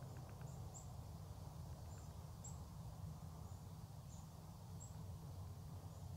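The last rapid wingbeats of a ruffed grouse's drumming roll fade out in the first half second. Then a low steady rumble, with faint, short, high chirps of a small bird at irregular intervals.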